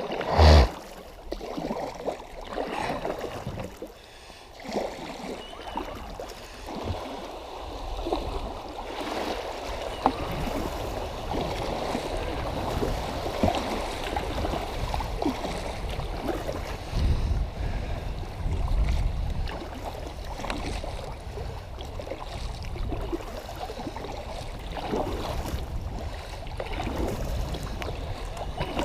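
Water sloshing and trickling against a kayak as it moves down the river, with small irregular splashes. There is a sharp knock about half a second in, and a low rumble of wind on the microphone partway through.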